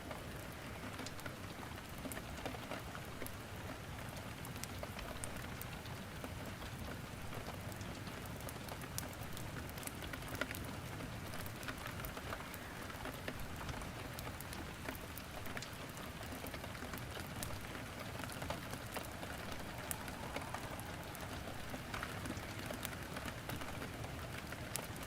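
Steady rain falling, mixed with wood crackling in a fireplace: an even hiss dotted with scattered sharp pops and clicks.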